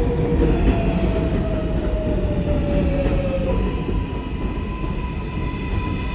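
R188 7 subway train running, with a steady low rumble of wheels on rail under an electric motor whine. The whine falls slightly in pitch, then about three and a half seconds in it switches to a higher steady tone.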